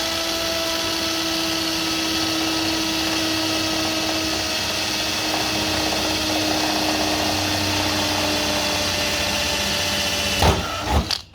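Power drill running steadily under load, boring a pilot hole through sheet steel with a blunt bit that is slow to cut. It spins up at the start and runs without a break, then stops about a second before the end with a couple of sharp knocks.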